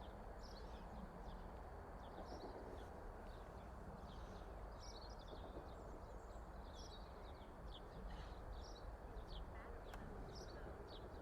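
Small birds chirping in many short calls over a steady background noise. Faint overall.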